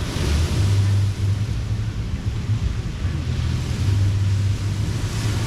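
Beach surf washing in, swelling near the start and again near the end, with wind rumbling on the microphone.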